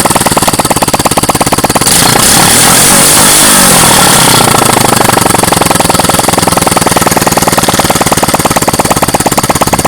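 110cc motorcycle engine running with no muffler, a loud, rapid popping exhaust at idle. It is revved briefly about two seconds in and settles back to idle a couple of seconds later.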